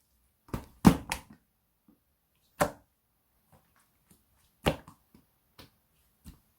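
Irregular sharp taps and clicks from small objects being handled by hand, about eight in all, with the loudest cluster about a second in.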